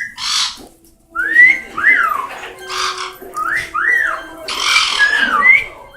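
Pet parrots whistling a repeated rising-and-falling phrase, about every two seconds, mixed with short harsh squawks.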